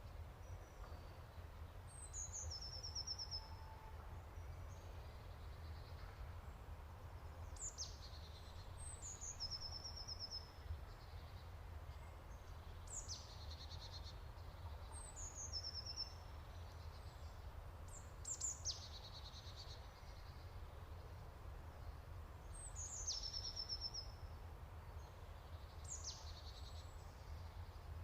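A songbird singing the same short phrase over and over, every few seconds: a quick high downward sweep, then a brief buzzy trill. A steady low rumble runs beneath it.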